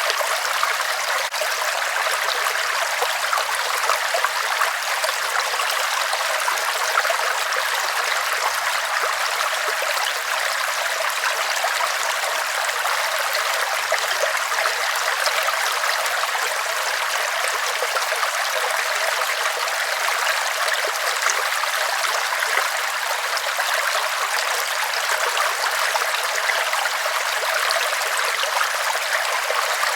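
River water flowing steadily over rocks: an even, unbroken rush with hardly any low rumble.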